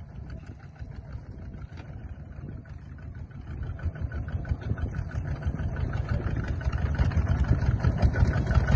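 Small tractor's engine running with a fast, even beat. It grows steadily louder over the second half, as the engine speeds up or takes on load.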